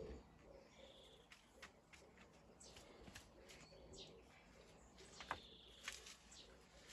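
Faint birdsong: scattered short chirps and calls, busiest about five seconds in.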